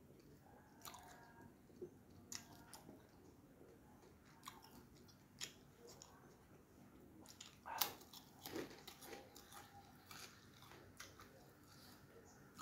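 Close-up mouth eating sounds: quiet chewing with scattered crisp crunches of a fried kerupuk cracker, the loudest crunch about eight seconds in.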